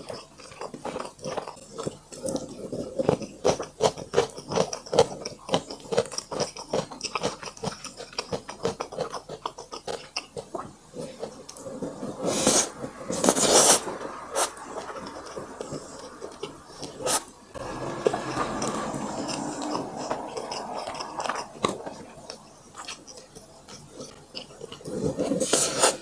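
Close-miked chewing and biting of food, a fast run of small wet clicks, with a few louder noisy bursts about halfway through and again near the end.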